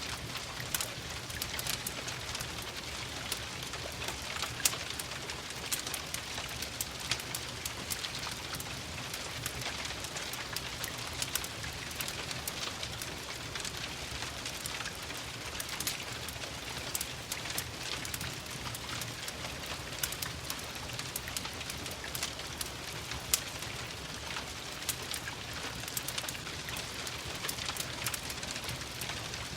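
Steady rain falling, with frequent sharp crackles and pops from a wood fire scattered over it; a couple of pops stand out louder than the rest.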